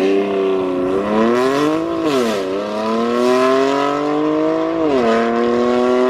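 BMW E92 335i's N54 twin-turbo straight-six pulling hard under acceleration, its pitch climbing and then dropping sharply twice, about two seconds in and again about five seconds in, as the dual-clutch gearbox upshifts.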